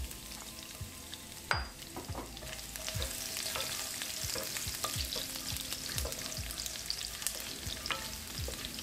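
Crushed garlic and whole spices frying in hot mustard oil, sizzling steadily while being stirred with a spoon, with scattered knocks and scrapes against the pan. The sizzle grows louder about three seconds in, and there is one sharp knock about a second and a half in.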